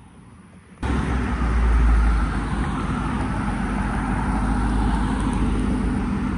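A car's engine running close by, loud and steady with a deep low rumble; it comes in abruptly about a second in and swells briefly around two seconds.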